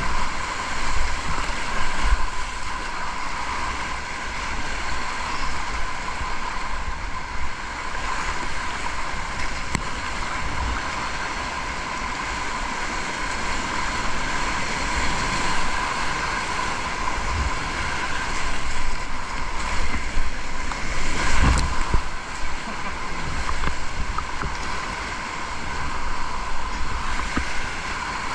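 River whitewater rushing steadily around a kayak, with wind rumbling on the microphone. A single knock about two-thirds of the way through.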